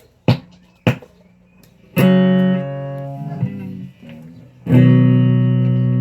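Guitar played with a pick: two sharp muted clicks, then a chord strummed about two seconds in that shifts to another, and a louder chord struck near the end that is left to ring.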